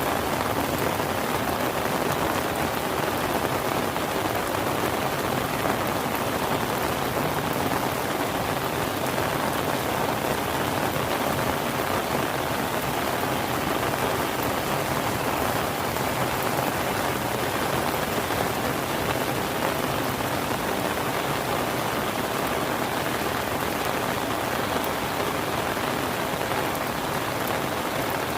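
Rain falling steadily, an even hiss with no pauses or changes.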